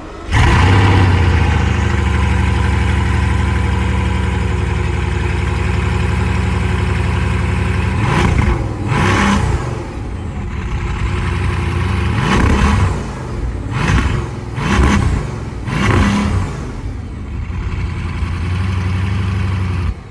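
Car engine running loud and steady at high revs, then revved up and down several times from about eight seconds in.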